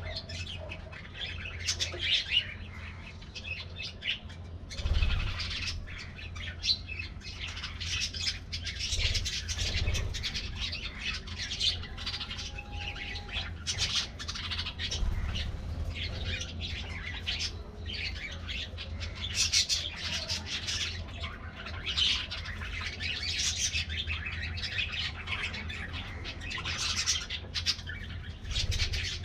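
A flock of budgerigars chattering, with many overlapping chirps and squawks that run on without a break, over a steady low hum.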